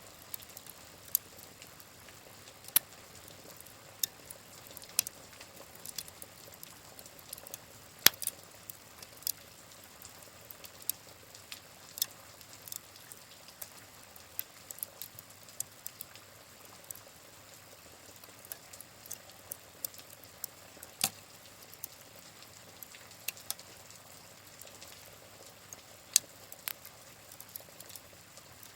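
Wood fire crackling, with irregular sharp pops and snaps over a steady soft hiss of rain; the loudest pop comes about eight seconds in.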